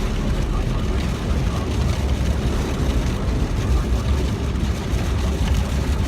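Steady low rumble with a hiss over it: the road and engine noise of a car in motion, heard from inside.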